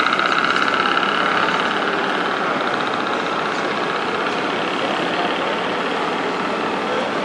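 Radio-controlled scale model trucks running, their sound modules playing diesel truck engine noise over a steady background din. A high, fast-pulsing whine fades out during the first two seconds.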